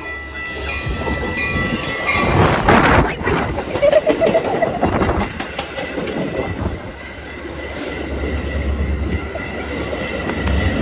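Metra diesel commuter train rolling along the platform: steel wheels clicking over rail joints, with a thin steady wheel squeal over the low rumble of the train. Loudest about two to four seconds in.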